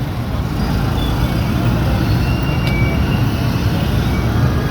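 Busy street traffic with motorcycle taxis: a steady, continuous rumble of engines and road noise, with a faint short tone and a sharp click about halfway through.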